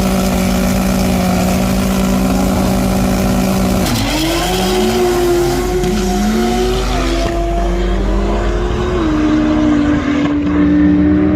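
Drag race cars held at high revs on the line, then launching about four seconds in and accelerating hard, the engine pitch climbing and dropping back at each gear shift.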